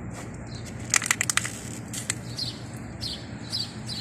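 Small birds chirping, short falling chirps repeated about every half second, over a steady low hum. A quick run of sharp clicks comes about a second in.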